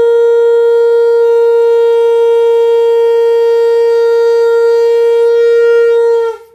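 Conch shell (shankh) blown in one long, steady note that dips slightly in pitch and cuts off near the end.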